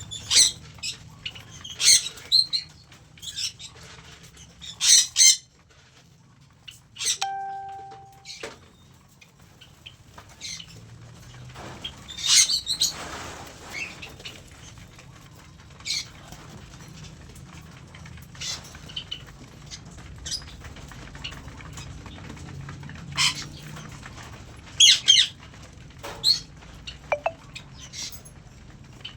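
Aviary birds, cockatiels among them, giving many short, sharp chirps and squawks at irregular intervals, with one held tone of about a second and a half near the quarter mark, over a steady low hum.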